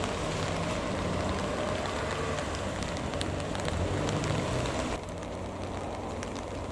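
Steady rain falling, with scattered drop ticks over a low engine hum. The sound changes abruptly about five seconds in.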